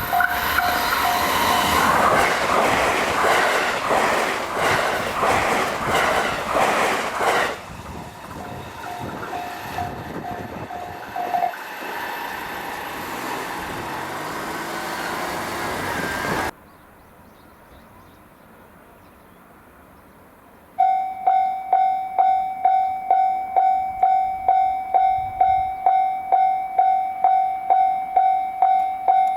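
Japanese level-crossing warning bell ringing in quick even strikes while a JR Hanwa Line train passes at high speed, its wheels clattering fast over the rail joints. The bell stops, and after a sudden cut to near quiet it starts ringing again, about two and a half strikes a second, as the crossing warns of the next train.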